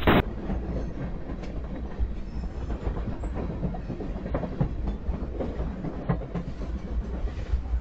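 Freight train of loaded flatcars rolling past close by: a steady low rumble of steel wheels on rail, with irregular clicks and clacks over the rail joints.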